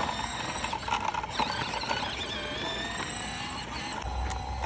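A child's small dirt bike motor running with a steady high whine.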